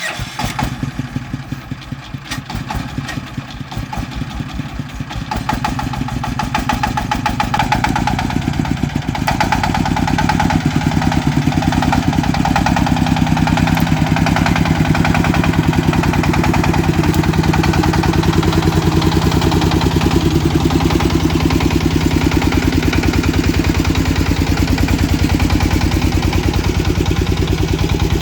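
A farm truck's engine running with a rapid, even firing beat. It grows louder about six to ten seconds in, then holds steady.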